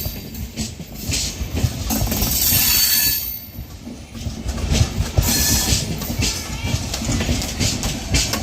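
A train passing close by: a steady rumble with a quick run of clacks as the wheels cross the rail joints, and a high-pitched rushing that swells twice.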